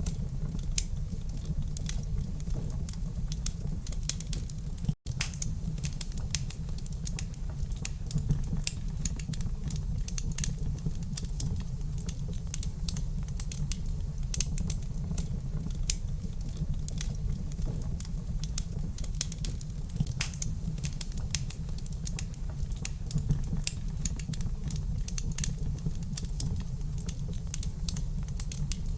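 Wood fire burning in a fireplace: dense, irregular crackles and small pops over a steady low rumble. The sound cuts out for a moment about five seconds in.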